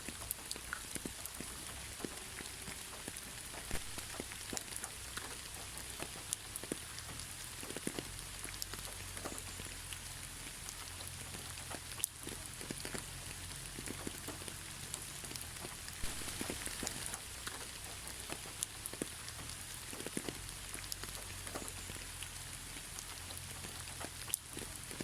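Steady gentle rain, without thunder: an even hiss with many separate drops ticking close by, over a low steady rumble.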